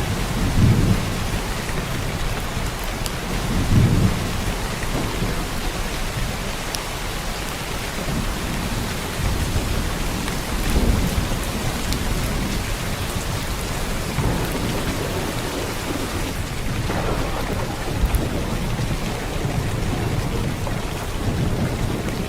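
Heavy downpour of rain falling steadily, with low rumbles of thunder swelling up several times.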